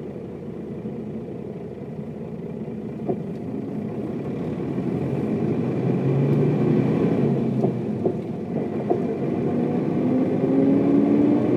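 Mercedes-Benz O407 bus diesel engine pulling under load as the bus gathers speed. It grows steadily louder and rises in pitch near the end, with a few short clicks partway through.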